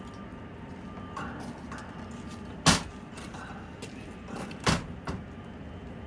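Steady rain hiss with a scatter of sharp knocks and taps; two louder knocks stand out about two seconds apart near the middle.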